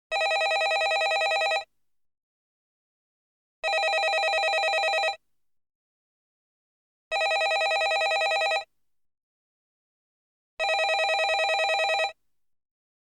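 Landline telephone ringing: four rings of about a second and a half each, one every three and a half seconds, each with a fast flutter, silent between rings.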